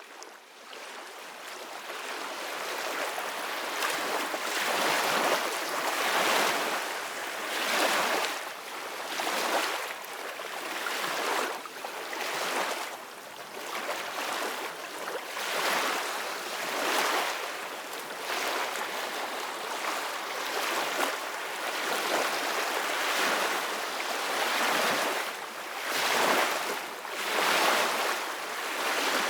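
Ocean waves breaking on a shore, the surf swelling and falling every second or two as each wave washes in. It fades in over the first few seconds.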